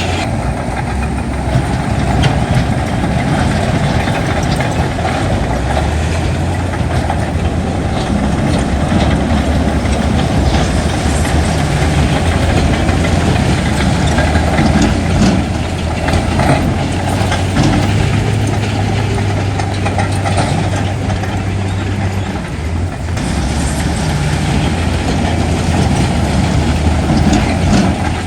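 Heavy diesel engine of earthmoving machinery running steadily, with scattered knocks and rattles from stone and soil being worked. The sound dips briefly about two-thirds of the way through.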